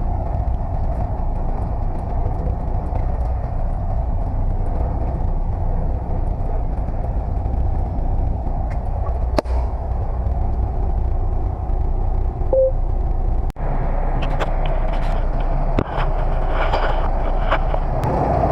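Heavy truck engine idling steadily with a low rumble, with a few sharp clicks and knocks in the second half.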